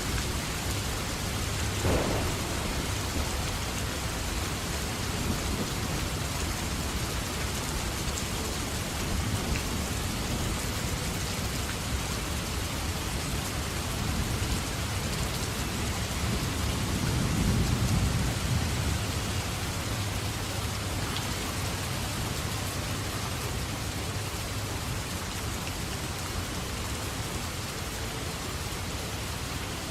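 Steady rainfall with thunder: a sharp crack about two seconds in, and a low rumble that swells and dies away a little past the middle.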